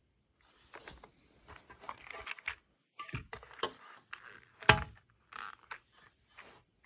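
Rustling and crinkling of packaging as the vacuum's parts and papers are handled, with scattered light clicks and one louder knock about two-thirds of the way through.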